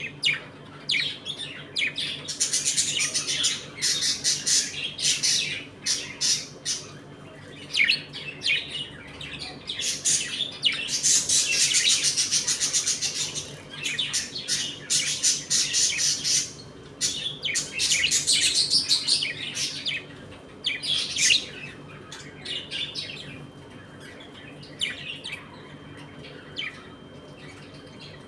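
A colony of budgerigars chattering: rapid, overlapping chirps, warbles and squawks from many birds at once. The chatter thins out over the last few seconds.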